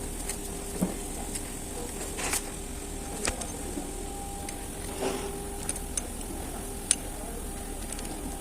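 Scattered sharp metallic clicks and clinks of hand tools, such as a 10 mm socket and wrench on the thermostat housing bolts, over a steady background hum.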